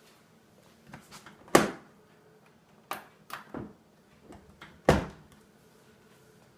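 Dishwasher door and latch being handled: a series of knocks and clicks, with two loud thuds, one about a second and a half in and one near five seconds.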